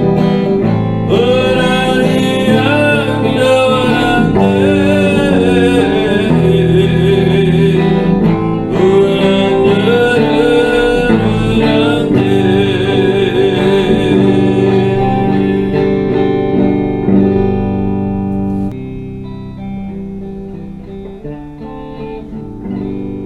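Worship band music led by acoustic guitar, with a wavering melody over steady chords; it drops to a quieter passage near the end.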